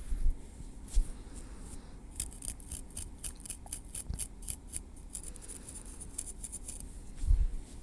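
Metal tweezers working at the scalp and hair: a run of quick, crisp clicks, about three or four a second, from about two seconds in until near the end. A few soft low thumps come at the start and near the end.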